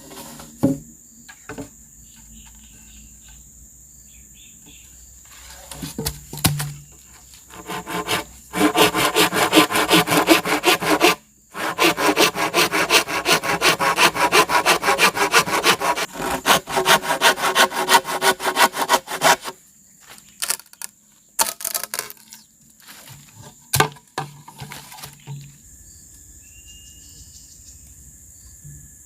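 Saw cutting through bamboo in rapid, rasping strokes. The strokes begin about eight seconds in, pause briefly, and carry on to about nineteen seconds. A few sharp knocks come before and after, over a steady high-pitched tone.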